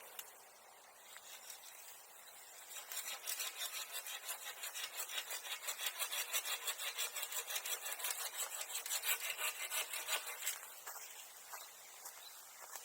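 Hand saw cutting through wood or bamboo with rapid, even push-pull strokes, starting about three seconds in and stopping near the end.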